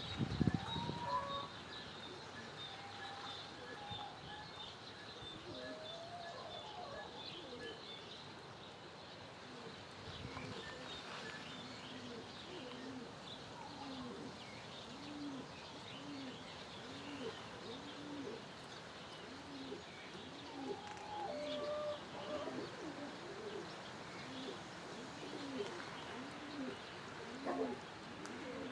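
Birds calling: small birds chirp throughout, with a few longer gliding calls. From about halfway in, a low call repeats about once a second.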